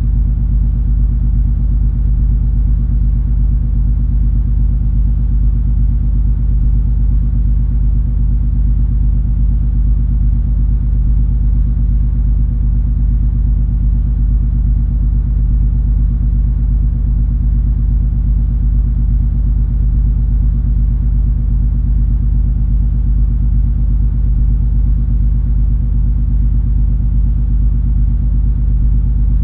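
Steady low rumble and drone of the cruise ferry MS Color Fantasy under way: engine and hull vibration with a few constant humming tones, unchanging throughout.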